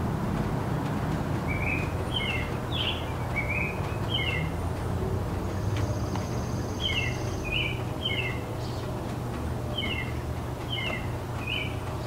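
A small garden bird giving short two-part chirps, one every half second to a second, in two bouts. Under them runs a steady low rumble of distant city traffic.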